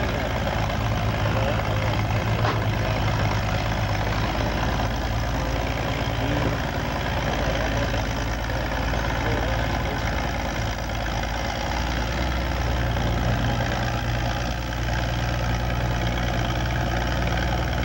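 Antique farm tractor engine running steadily. Its low drone eases off for several seconds in the middle, then comes back stronger.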